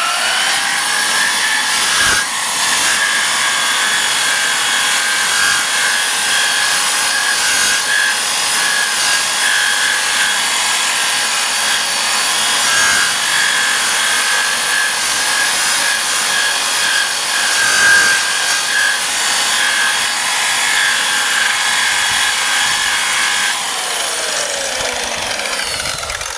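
Electric burnishing (paint-stripping) tool spinning up, then running steadily with its abrasive wheel rubbing paint off the truck's steel body, its motor whine falling as it winds down near the end.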